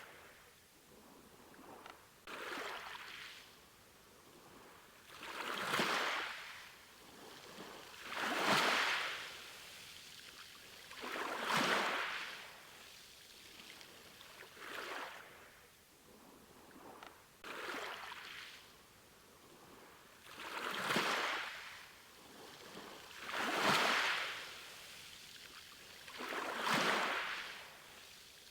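Ocean waves washing in and drawing back, one wave about every three seconds, each swelling up and fading away.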